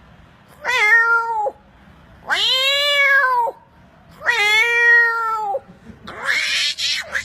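A man imitating a cat: three drawn-out meows, each rising then falling in pitch, followed near the end by a harsh, breathy rasp.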